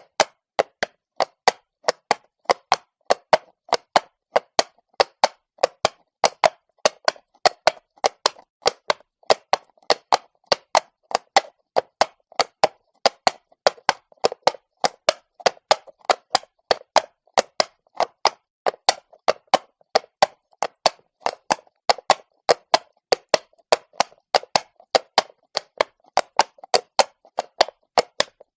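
Horse's hooves striking stone at a walk: sharp knocks, about three or four a second, in a steady but slightly uneven rhythm.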